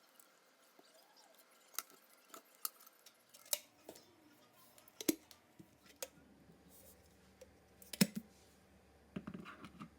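Light clicks and knocks from a new electric kettle and its packaging being handled and unpacked, scattered a second or so apart, with a quicker run of small knocks near the end.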